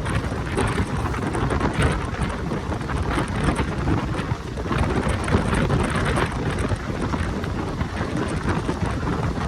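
Steady loud rushing noise with a heavy low rumble and ragged flutter, like wind buffeting the microphone on the move.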